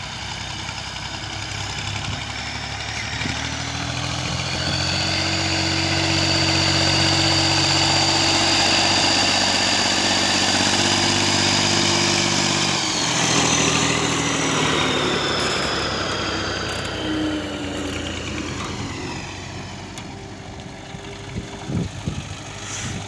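Tractor diesel engine running under work, growing louder, then dropping in pitch about thirteen seconds in and fading away. A few knocks sound near the end.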